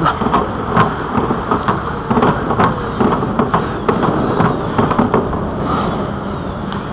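Bicycle riding along a paved trail: wind rushing over the microphone, with irregular knocks and rattles from bumps. It gets a little quieter near the end.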